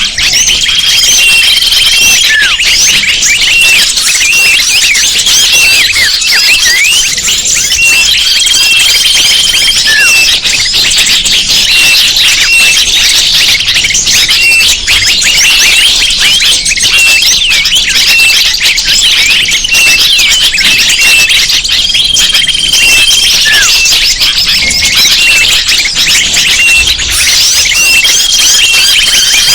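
Bird-lure call recording: a dense chorus of many small birds chirping and trilling at once, played to draw wild birds in. A short, steady whistle-like tone recurs every several seconds over the chatter.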